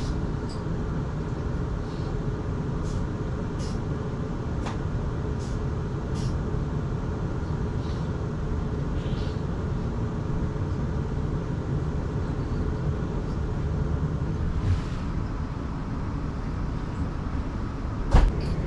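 Steady low rumble inside a South Western Railway train running on the rails as it comes into a station, with scattered faint high clicks and squeaks. A sharp knock near the end.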